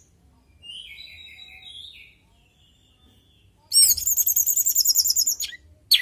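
Orange-headed thrush singing: a soft warbling phrase, then about four seconds in a loud, fast, high trilling phrase lasting nearly two seconds, closed by a short sharp note.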